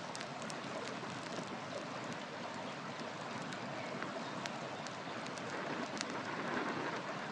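River water rushing steadily, with a wood fire crackling over it in scattered sharp pops and snaps; the water swells slightly near the end.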